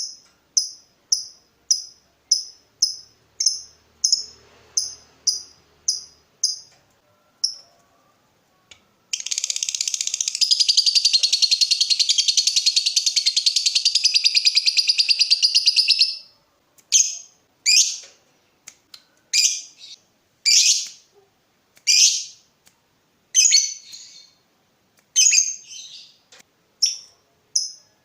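Lovebird calls. First comes a run of short, sharp ticking chirps about twice a second, then a long, rapid chattering trill lasting about seven seconds (the long 'ngekek' that keepers train their birds toward), then single loud chirps spaced about a second apart.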